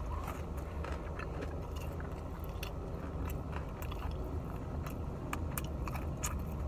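A person chewing a fried chicken tender with loud open-mouth smacking: wet lip and tongue smacks and sharp clicks throughout, over a steady low hum.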